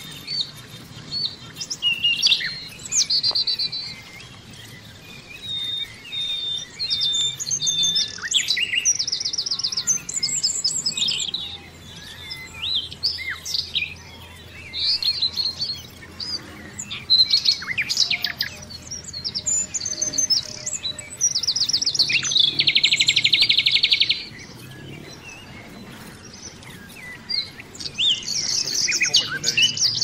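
Several songbirds singing and calling, with a mix of short chirps, whistled notes and fast trills. The loudest is a rapid, even trill lasting about a second and a half, some 22 seconds in.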